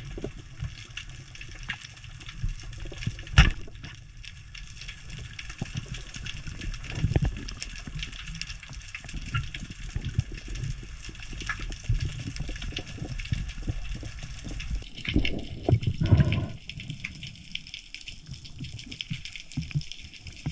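Underwater water noise picked up by a diver's camera, with many scattered clicks. A sharp knock comes about three and a half seconds in, and louder low swooshes of moving water come around fifteen to sixteen seconds in.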